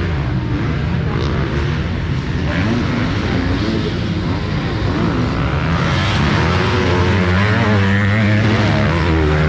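Several motocross bikes racing, their engines revving up and down in pitch as they run the track, over a steady low drone.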